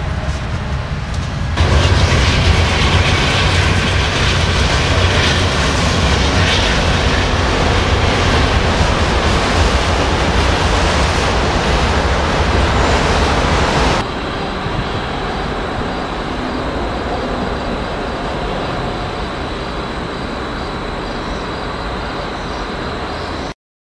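Freight train cars rolling past on the rails: a steady rumble of wheels on track. It gets louder about a second and a half in, drops to a quieter level about fourteen seconds in with a faint steady high whine, and cuts off suddenly near the end.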